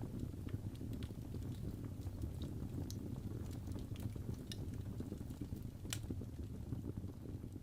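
Wood fire burning in a fireplace: a steady low rumble of flames with scattered sharp crackles and pops, one louder pop about six seconds in.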